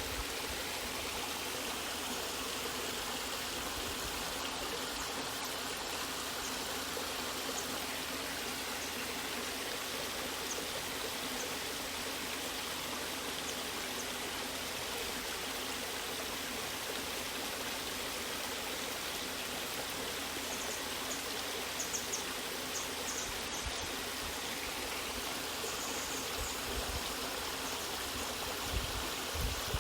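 Natural waterfall: water rushing and splashing steadily, with a few brief drips standing out in the last third.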